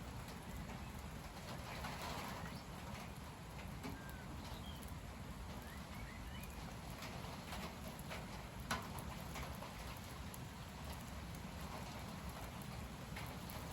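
Strong gusty wind blowing through tall trees, with a steady low rumble of wind on the microphone. A few faint bird chirps come through in the middle, along with scattered light taps and one sharper tap a little before nine seconds in.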